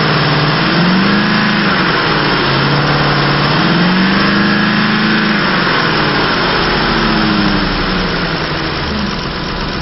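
Ford 5.4-litre V8 in a 2006 F-150 running, revved up and let fall back twice, then given a smaller blip before settling.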